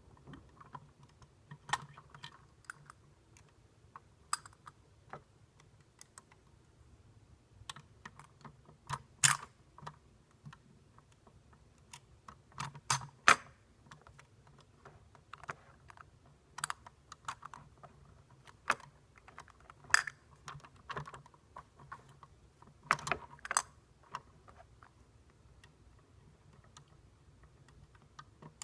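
Irregular light clicks and taps of hard plastic parts, a toy garbage truck model being handled, with a few sharper knocks scattered through.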